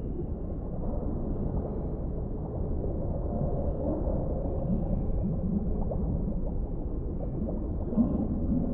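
Underwater ambience: a steady low rumble of deep water with scattered short, low gurgling blips, the loudest near the end.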